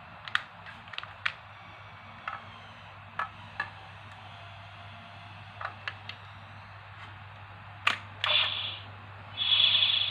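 Sharp plastic clicks, about ten of them at uneven intervals, from a toy Spark Lens being handled and its parts or buttons worked. Near the end a loud electronic sound from the toy's small speaker starts and carries on.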